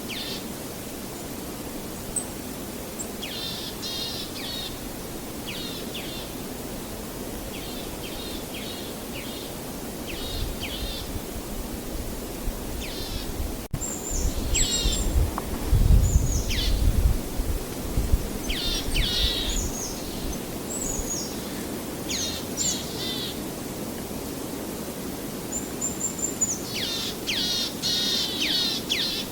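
Small birds chirping in short repeated phrases over a steady wash of ambient noise, likely distant waves. About halfway through, a low rumble swells for a few seconds and fades, and the birds grow busier near the end.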